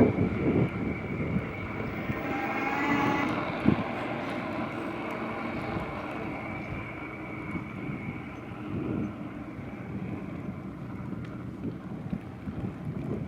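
A small ride-on vehicle running, with a steady high whine over rumbling noise and a single knock a few seconds in.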